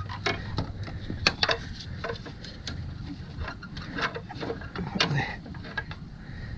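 Irregular light clicks and knocks of hand tools against metal engine parts while a part is being pried at, with a faint low hum underneath.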